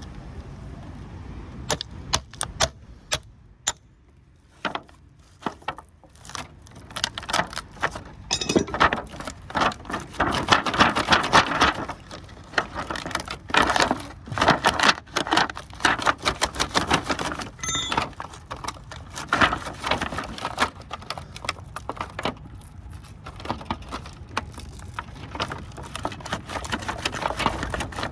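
Copper windings of a transformer clinking and rattling as they are pried and pulled out by hand: a busy run of short metallic clicks and clanks, thickest a third of the way in.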